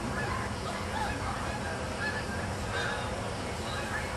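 Five-week-old German shepherd puppies whimpering and squeaking: scattered short, faint high-pitched calls over a steady background noise.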